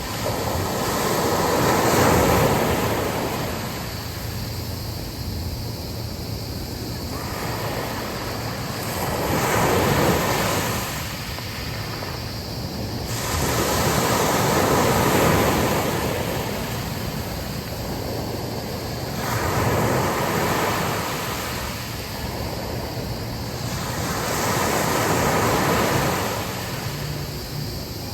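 Sea waves breaking and washing onto a beach, the surf swelling and falling back about every five seconds, with wind buffeting the microphone.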